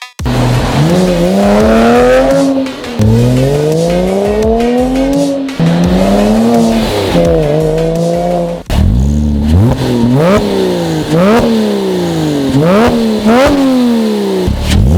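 Porsche Cayman 987's 2.7-litre flat-six through a Remus cat-back exhaust, accelerating hard with the pitch climbing and dropping at each of three gear changes. From about two-thirds of the way in it is revved in quick sharp blips, about one a second.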